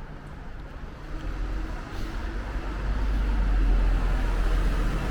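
City street traffic: a motor vehicle going by, its rumble growing louder from about two seconds in.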